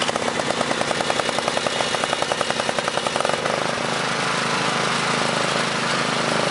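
Small engines of Cub Cadet and John Deere lawn tractors running, with a rapid, even pulsing for the first three seconds or so that then settles into a steadier drone.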